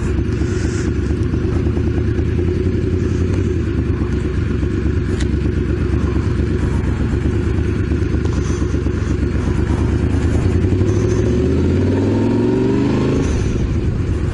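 Honda VFR750's V4 engine running under way, heard from a helmet-mounted camera. Near the end the revs climb, then fall away abruptly, as at a gear change.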